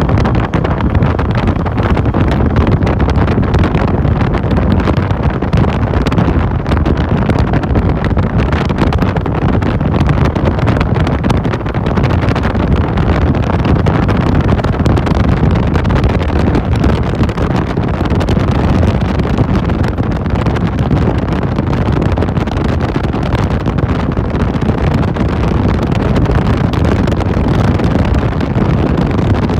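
Steady wind buffeting the microphone on a moving motorcycle taxi, with the motorcycle running underneath.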